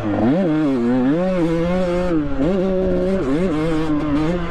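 Two-stroke dirt bike engine heard from the rider's helmet while riding a motocross track, its pitch rising and dropping several times as the throttle is worked, with short dips between steadier stretches.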